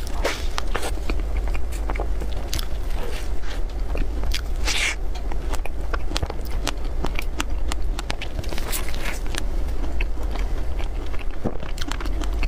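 Close-miked eating of cream puffs: biting and chewing with many small crackles and wet mouth clicks, over a steady low hum.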